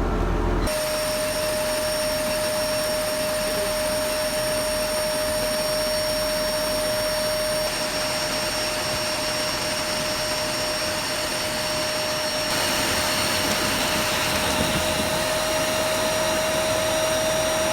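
Dyson vacuum cleaner running steadily with a high motor whine, starting suddenly about a second in, sucking lint out of a clogged dryer vent.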